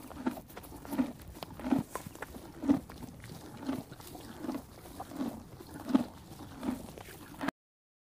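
A horse chewing in a steady rhythm, one crunching chew a little under once a second, cutting off abruptly near the end.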